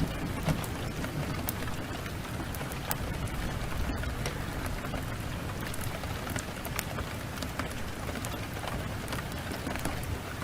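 Steady downpour of rain mixed with a wood fire, with scattered sharp crackles and pops throughout.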